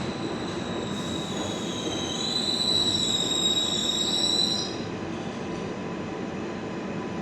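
R142A subway train running, heard from inside the car: a steady rumble, with the wheels squealing high and wavering for about three and a half seconds from a second in, as the train comes into Bowling Green station.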